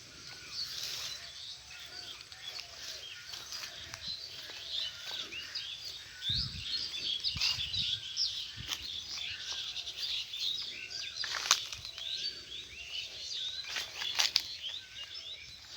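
A flock of small birds chirping at once, with many short overlapping chirps. A few sharp clicks stand out, the loudest about three quarters of the way in.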